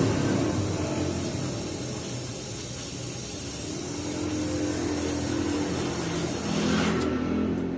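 Suzuki Futura engine running through an HKS Hipower racing exhaust, settling back from a rev to a steady idle, with a hiss over the exhaust note.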